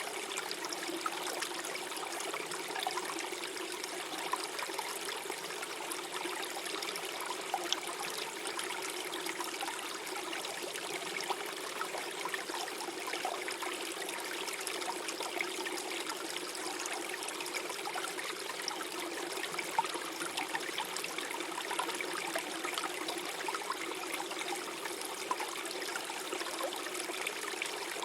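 Small stream flowing steadily, gurgling and trickling over stones.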